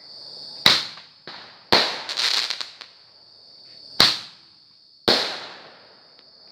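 Fireworks going off: four sharp bangs a second or two apart and a smaller pop, the second bang followed by a short spell of crackling.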